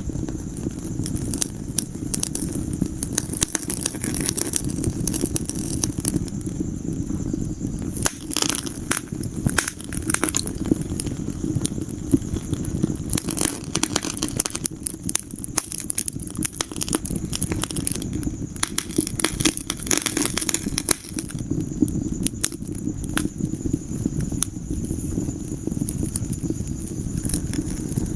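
Wood fire in a fireplace crackling, with frequent sharp pops over a steady low noise of the burning fire.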